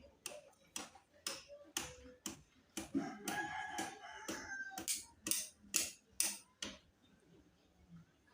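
A run of sharp clicks or knocks, about two a second, that stops near the end, with one drawn-out crowing call about three seconds in.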